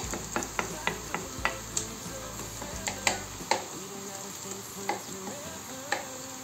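Chopped onion sizzling in hot oil in a frying pan, with a wooden spoon stirring it and knocking against the pan many times, fewer knocks in the second half.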